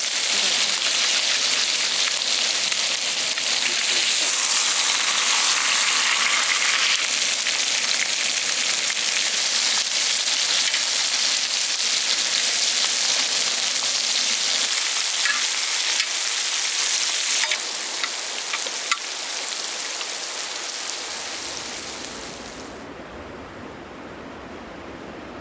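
Beef sizzling loudly as it cooks, a steady hiss that eases off a little past halfway, with a sharp tick about nineteen seconds in. The hiss cuts off suddenly near the end, leaving a quieter low background.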